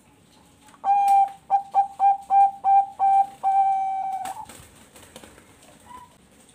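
Bangkok-strain perkutut (zebra dove) singing one cooing phrase: an opening coo, a quick run of about six short clipped coos, then a long held final coo.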